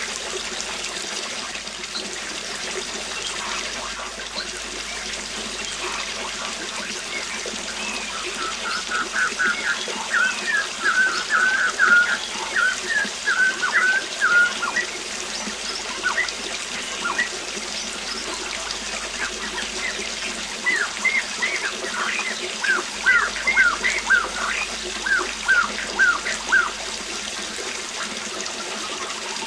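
Steady rush of a waterfall with songbirds singing over it: a rapid run of chirps around the middle, then a series of short, falling notes later on.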